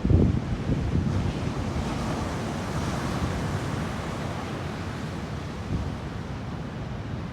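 Ocean surf from typhoon swell breaking and washing in, swelling into a broad hiss about two to three seconds in. Gusty wind buffets the microphone with low rumbles, strongest near the start.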